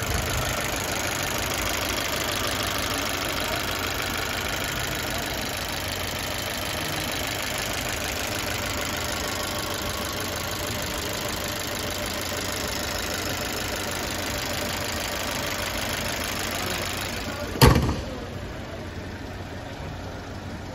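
2013 Dodge Dart's 1.4-litre turbocharged four-cylinder engine idling steadily with the hood open. Near the end the hood is shut with one loud thump, and the idle goes on more muffled.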